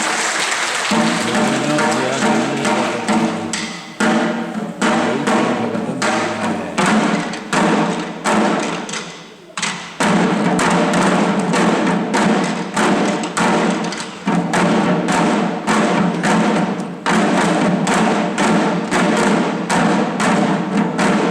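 Shishi-odori (deer dance) drums beaten by the dancers in a quick, steady rhythm, with held singing voices under the strokes. The drumming briefly drops away about nine seconds in, then comes back.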